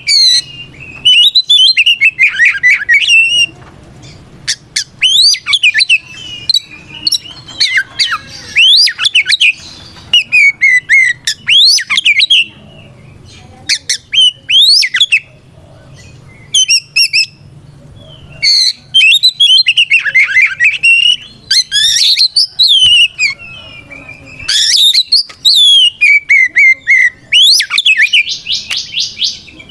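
Oriental magpie-robin (kacer) singing loud, varied phrases of clear whistles, quick trills and harsh rasping notes in bursts with short pauses between them. It is the bird's loud challenge song to a rival male.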